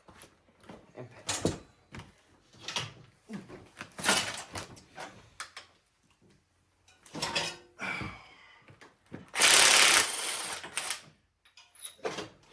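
Metal clinks, knocks and scrapes of hand tools working on an engine. A louder, harsher scraping rush about nine and a half seconds in lasts a second or two.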